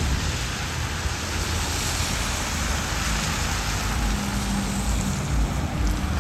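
Steady hiss of rain falling, over the low rumble of slow-moving road traffic.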